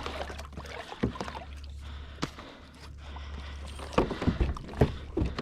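Scattered knocks and clicks of gear being handled on a plastic fishing kayak over a steady low hum, with a run of louder knocks about four seconds in.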